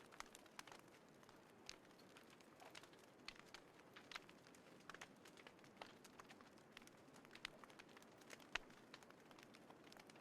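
Small campfire in a compact fire pit crackling faintly, with irregular sharp snaps and pops over a low hiss.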